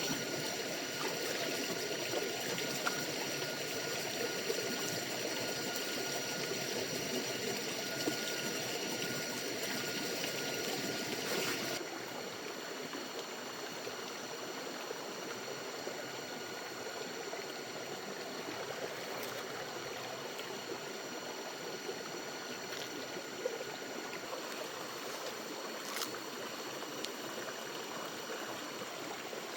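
Stream water flowing in a steady rush, with faint steady high tones above it; the sound drops slightly in level about twelve seconds in.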